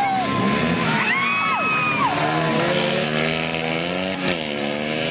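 Motocross dirt bike engines revving up and down, the pitch rising and falling in quick sweeps, then holding a steadier tone over music in the background.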